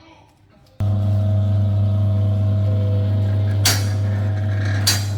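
A steady engine drone that starts suddenly, with two short hissing bursts near the end, then cuts off abruptly.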